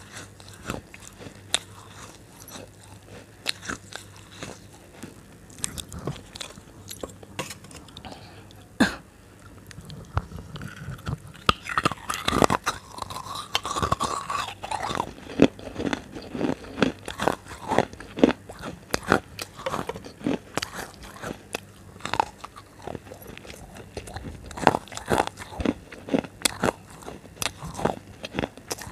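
A person biting and chewing crunchy food close to the microphone: irregular sharp crunches, sparse at first, then coming thicker and louder from about a third of the way in.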